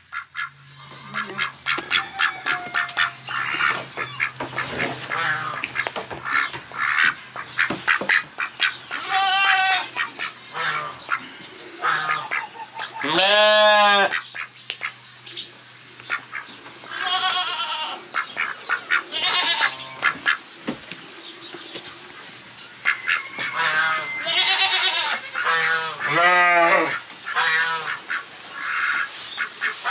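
Farmyard ducks and geese calling over and over, quacks and honks overlapping, with one longer, louder call about thirteen seconds in.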